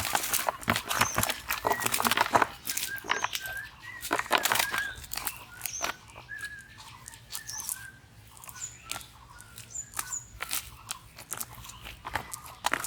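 Birds chirping with short repeated calls, over a dense run of crackling clicks that fills the first few seconds and then thins out.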